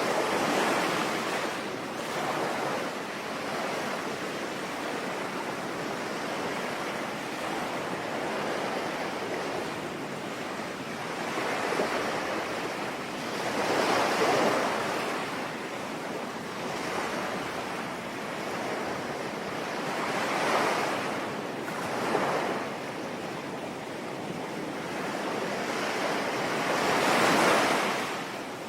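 Sea waves breaking and washing in over a steady hiss of rain, the surf swelling and falling back every several seconds, loudest about half way through and near the end.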